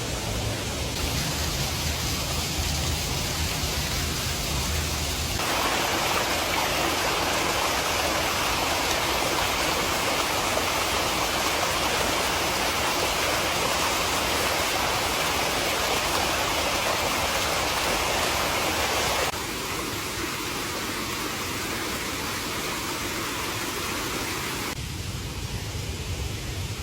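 Steady rushing water with no distinct events. Its tone and loudness change abruptly about five seconds in and again about nineteen seconds in.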